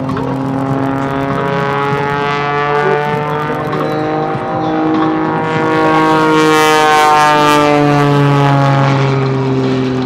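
A propeller-driven aerobatic airplane performing at an airshow. Its engine note swells and shifts in pitch, rising and then falling as it manoeuvres, and is loudest about six to eight seconds in.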